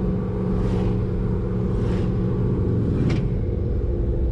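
Corvette ZR1's supercharged V8 running under load, heard from inside the cabin with the windows down. About three seconds in, the engine's pitch falls as the revs drop off.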